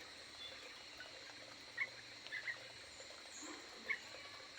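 Aviary birds giving a few short, scattered chirps, about three brief calls, over a faint steady high hiss.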